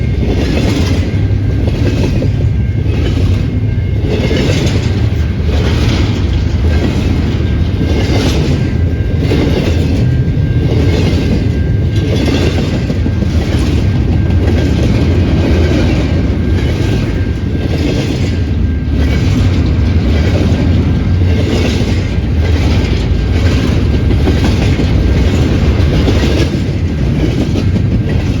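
A train rolling past close by: a loud, steady rumble of the cars, with wheel clicks over the rail joints coming about once a second.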